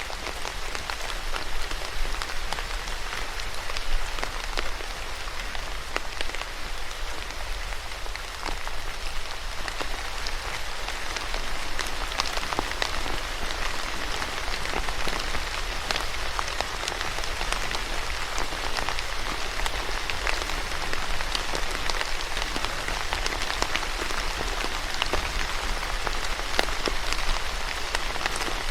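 Steady rain falling on a surface, an even hiss dotted with the pattering of individual drops.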